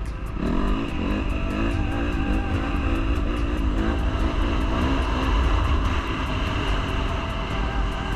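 Dirt bike engine being ridden on a trail, its pitch rising and falling over and over as the throttle is opened and closed, over a steady low rumble.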